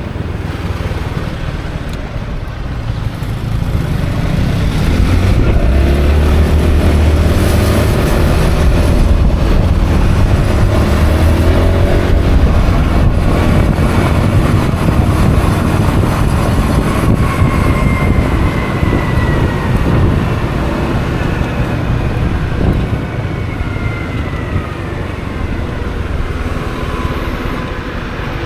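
Wind rushing over the action camera's microphone while riding a Honda Forza 350 scooter, with the single-cylinder engine's note rising as the scooter speeds up a few seconds in. The level eases off near the end.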